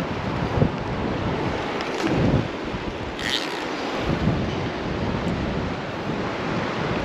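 Wind buffeting the microphone over the steady rush of creek water, with a brief higher hiss about three seconds in.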